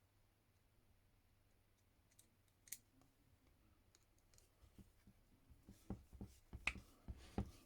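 Faint clicks and taps of small parts being handled while wiring terminals are fitted: one sharp click about three seconds in, then a quickening run of light clicks near the end.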